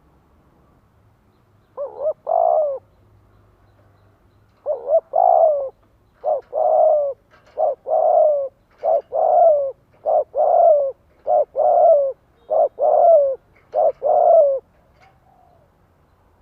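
Spotted dove cooing, the lure call that sets other doves cooing back. It gives repeated phrases of a short note or two followed by a longer, slightly falling coo. After a pause the phrases come in a quicker run of about one a second until near the end.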